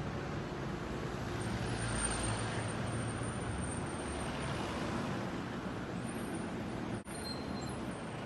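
Road traffic: engines and tyres running steadily, with a vehicle passing close and loudest about two seconds in. A brief dropout near the end.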